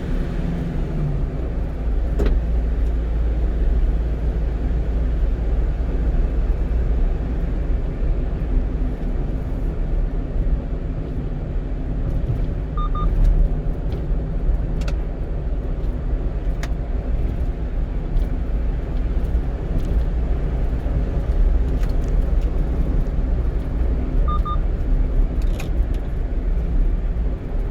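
Steady engine and road rumble heard inside the cab of a one-ton truck on the move. A faint short double beep sounds about halfway through and again near the end.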